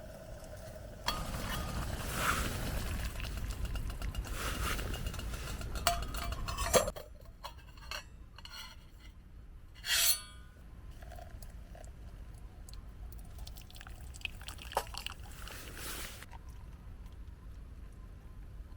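Camp coffee being made with metal camp cookware: a steady rushing sound for about six seconds that cuts off suddenly, then scattered light clinks and knocks of cups and utensils.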